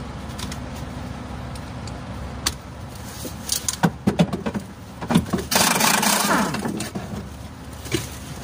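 Metal tool clinks and knocks from spanner work on a truck's fuel feed pump, over a steady low engine hum; a loud rushing hiss lasting about a second comes past the middle.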